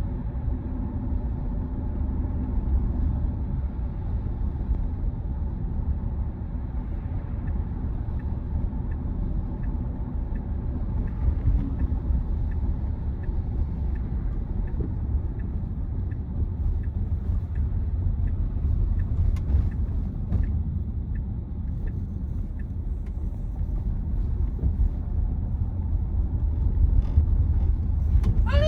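Steady low road and tyre rumble inside the cabin of a Tesla Model Y electric SUV driving along, with no engine note. A faint, regular light ticking, roughly one and a half ticks a second, runs through the middle stretch.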